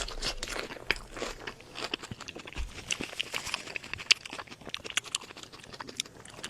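Close-miked eating: crunchy bites and chewing of crispy food. Heavier crunches come in the first second or so, then steady chewing with many small, sharp crackling clicks.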